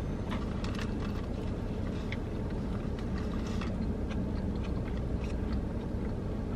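Biting into and chewing a sub sandwich, with small soft crackles and mouth clicks scattered through, over a steady low rumble inside the car.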